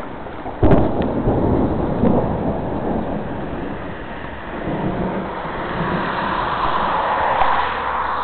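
Thunder: a sharp crack a little over half a second in, then a long rolling rumble that swells again near the end.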